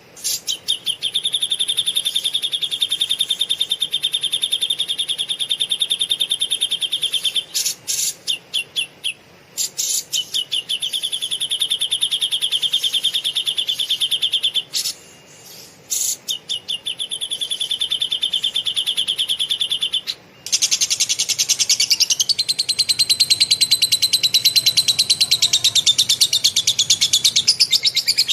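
Bird calling in long runs of fast, rapid-fire chattering notes, each run lasting several seconds with short breaks between. About twenty seconds in, a denser, higher chatter takes over.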